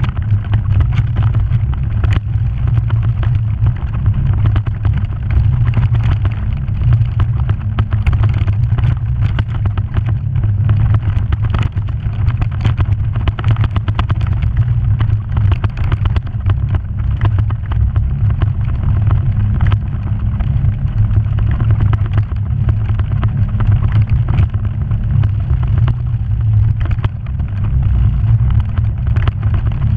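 Off-road vehicle running steadily along a rough trail: a continuous low engine and drivetrain rumble with frequent knocks and rattles from the bumpy ground.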